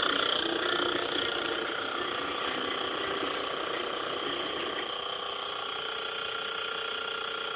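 Montgomery Ward CED videodisc player running with a steady lawnmower-like mechanical drone from its belt and pulley drive, the sign of a newly fitted pulley set too low. The lower part of the drone drops away about five seconds in.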